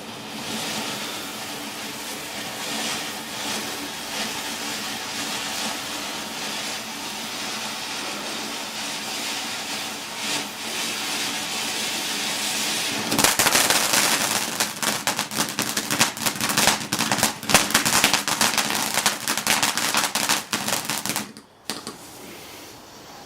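Garden firework fountain burning with a steady hiss for about thirteen seconds, then a dense crackling finish lasting about eight seconds that stops suddenly.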